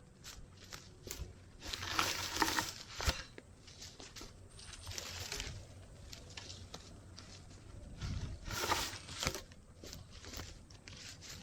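Irregular rustling and crunching with scattered clicks and snaps. The two loudest bursts come about two seconds in and about eight and a half seconds in.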